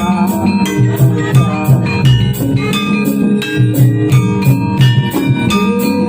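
Javanese jathilan gamelan music: bright metallophone notes ringing over deep drum strokes, with a crisp tick keeping a steady beat about four times a second.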